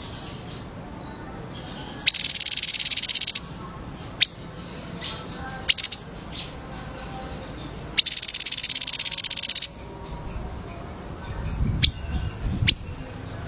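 Songbird chirping: two loud, rapid high trills, about two seconds in and about eight seconds in, among short sharp chirps, with a low rumble near the end.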